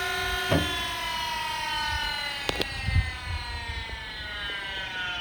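DoAll DH-612 surface grinder's spindle and 1 hp three-phase motor winding down after a click about half a second in: a whine of several tones sliding slowly lower as the spindle coasts, smooth and quiet. Two sharp clicks about two and a half seconds in.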